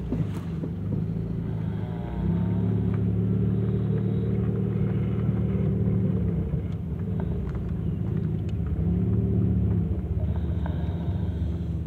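Car engine running at low speed, heard from inside the cabin as the car moves slowly in a line; its hum rises and falls a few times.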